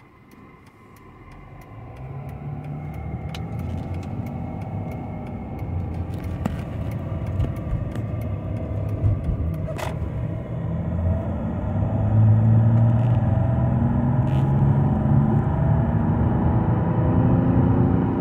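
Mercedes E320 CDI diesel engine heard from inside the cabin, pulling away from a stop and accelerating hard. It grows steadily louder, its pitch climbing and dropping back at the automatic gear changes.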